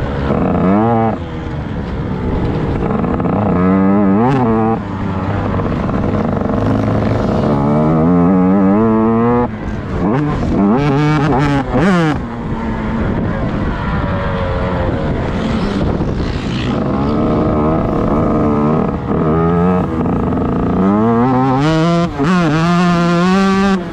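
Motocross bike engine being ridden hard, revving up steeply and dropping back again and again, with steadier stretches between the sweeps.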